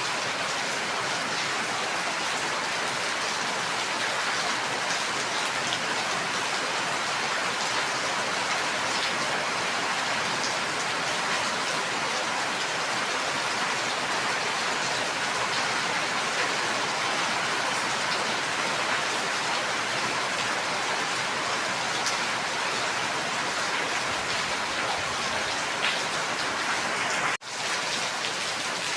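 Steady rain falling, an even hiss with scattered patter of drops. About 27 seconds in the sound cuts out for a split second and comes straight back.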